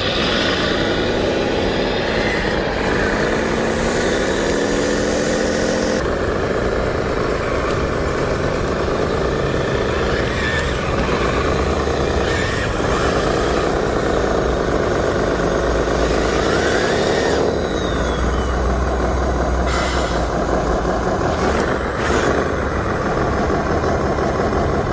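Engine sounds from radio-controlled construction vehicles, repeatedly rising and falling in pitch as they rev, with sudden changes in the sound about six seconds in and again past the middle.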